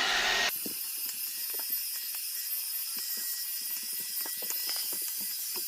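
A hair dryer blowing, cut off abruptly about half a second in, followed by a quieter stretch of faint hiss with scattered small clicks and ticks.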